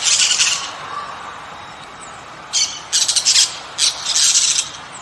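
Toco toucan calling in harsh, rattling squawks: one burst at the start, then three more in quick succession about two and a half seconds in.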